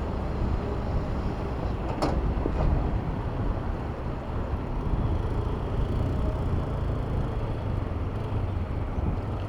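Steady city road traffic heard from a bicycle riding among cars and buses, with one sharp click about two seconds in.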